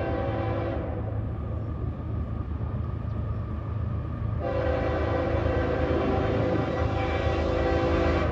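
Locomotive air horn sounding two long blasts over the low rumble of a passing train: the first blast ends about a second in, and the second starts about halfway through.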